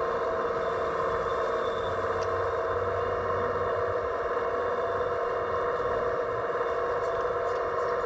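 Steady whining hum of a radio-controlled construction model's electric drive running, with a few faint clicks.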